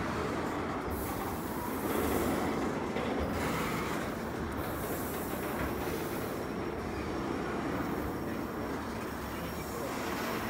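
The double-stack container well cars of a CN intermodal freight train rolling past, making a steady rumble of steel wheels on rail.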